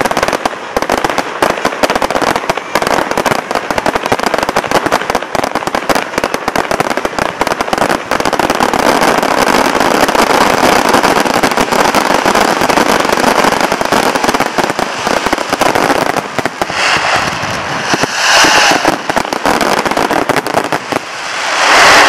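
An aerial fireworks barrage: many shells bursting in quick succession, a dense, unbroken run of bangs and crackles that thins out into a few separate swells over the last several seconds.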